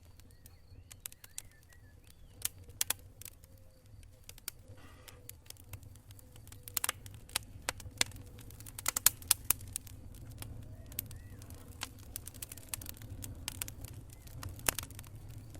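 Wood campfire crackling with irregular sharp pops, thickest about halfway through, over a steady low rumble.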